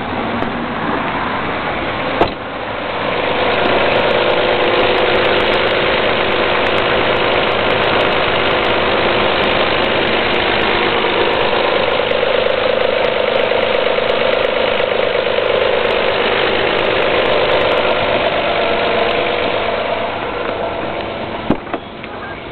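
Alfa Romeo GTV's 3.0 24-valve V6 engine idling steadily, heard close to the open engine bay. It gets louder about two seconds in and falls away near the end.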